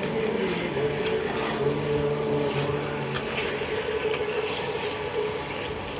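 Marinated chicken frying and sizzling in spice paste in a kadai while it is stirred, with a couple of sharp spatula ticks against the pan about three and four seconds in, over a steady background hum.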